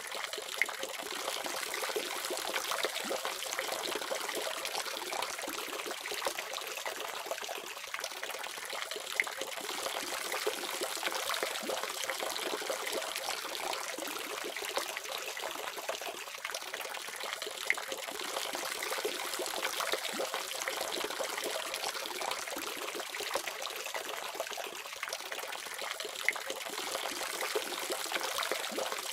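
Water running steadily from a faucet, splashing, with occasional brief louder splashes.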